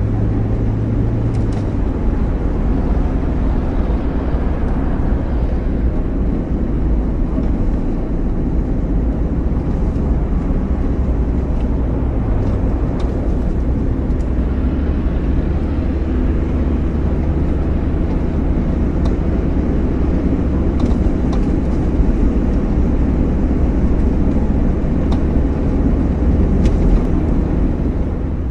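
A motor vehicle running with a steady low drone, as heard from the car on a slow drive through city streets. Faint scattered clicks sit over it.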